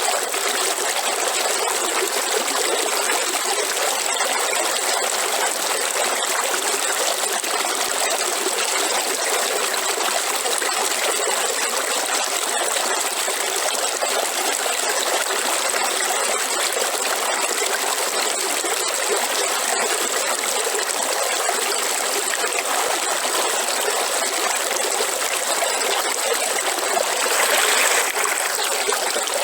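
River water running steadily, with a brief louder surge near the end.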